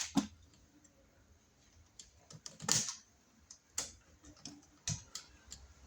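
Small, irregular clicks and scrapes of a screwdriver and wire on a wall outlet's terminal screw, as the wire is hooked around the screw and the screw is tightened down.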